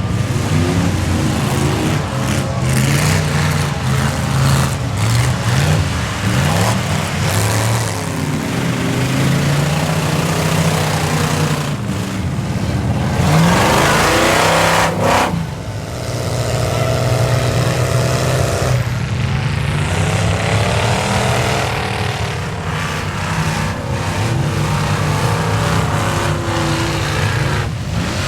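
Square-body Chevy pickup truck engine revving hard through a mud bog, the pitch rising and falling again and again, loudest about halfway through.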